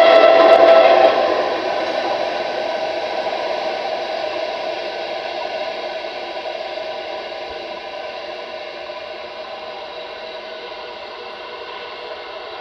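Tram wheels squealing against the rails in a tight turning-loop curve: several steady high tones, loud for about the first second, then dropping and slowly fading.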